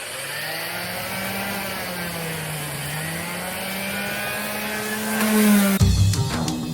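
A power tool's motor runs with a steady hum whose pitch sags and recovers, as under changing load. Music takes over near the end.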